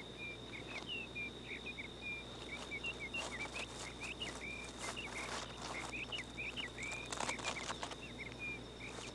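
Natural outdoor ambience: a bird gives a continuous run of short, quick chirping notes, several a second, over a steady high-pitched tone, with a few soft brief rustles.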